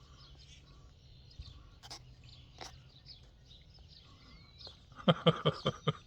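Faint bird chirps on and off, then near the end a quick run of about six loud animal calls in a row.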